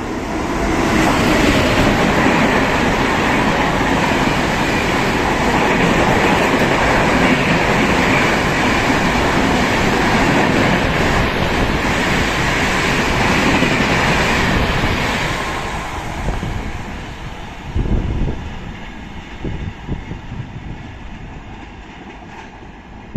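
Express train passing through the station at speed without stopping, its wheels clattering over the rails. The noise builds within the first second, stays loud for about fifteen seconds, then fades away, with one short louder burst partway through the fade.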